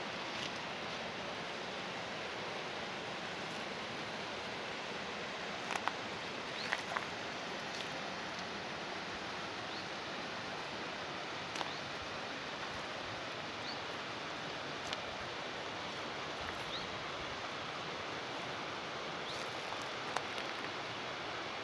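Water flowing steadily along a small channel, with a few scattered short sharp clicks.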